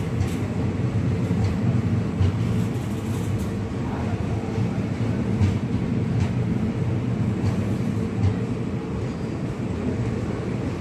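Indian Railways express passenger coaches rolling past along a station platform: a steady low rumble of wheels on rails, broken by occasional sharp clicks.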